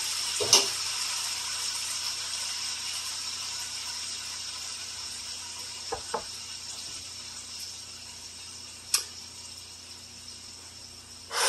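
Chicken sizzling in oil in a wok: a steady hiss that slowly fades, with a few light clicks and a brief louder rush near the end.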